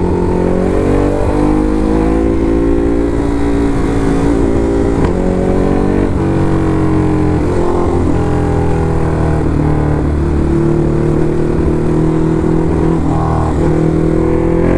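Ducati Hypermotard SP's L-twin engine running steadily under way, its pitch shifting a little a few times with throttle changes.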